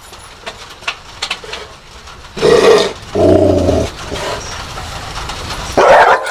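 Pit bull–Labrador mix barking aggressively at a visitor in the doorway, in three loud outbursts, the middle one drawn out.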